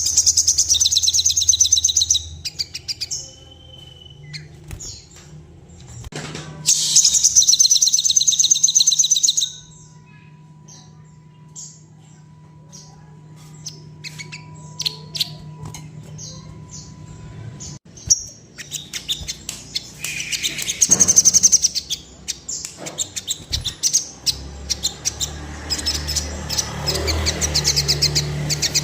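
Sogon singing in full voice: loud, rapid trilled bursts high in pitch, four times, with scattered short chirps between them.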